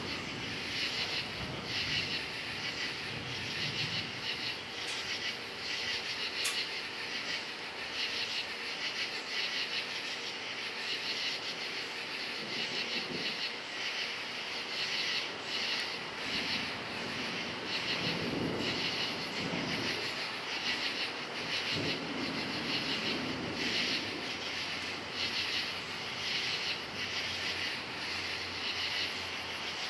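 Crickets chirping in a steady, pulsing chorus, with low rumbles of thunder swelling up about two-thirds of the way through.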